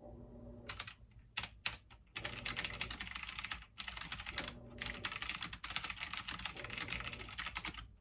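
Computer keyboard typing in quick runs of keystrokes, with a couple of short pauses.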